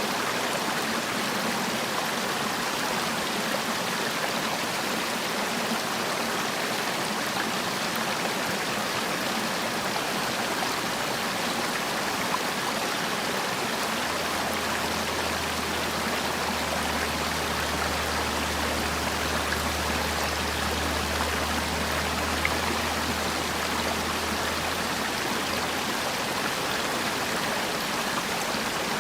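Mountain valley stream, water rushing steadily. A low hum joins about halfway through and lasts some ten seconds.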